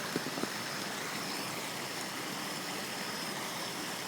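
Flooded creek water rushing steadily with a strong current, the creek swollen by hurricane rain. A couple of faint small knocks come in the first half second.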